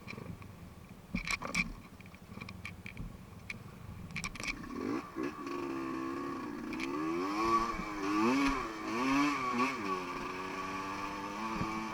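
A few sharp knocks and some clatter, then about five seconds in a dirt bike engine is heard revving, its pitch rising and falling over and over.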